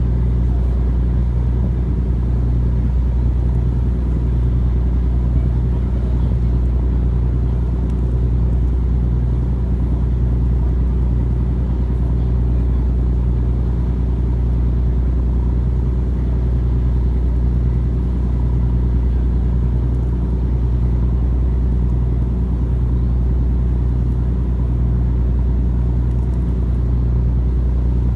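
Tugboat's diesel engine running steadily, a deep, even drone with no change in speed.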